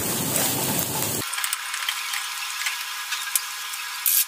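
Diced carrots and scrambled egg sizzling in hot oil in a nonstick wok over a high gas flame, with a plastic spatula scraping and ticking against the pan as it stirs. From about a second in the sound turns thin and tinny.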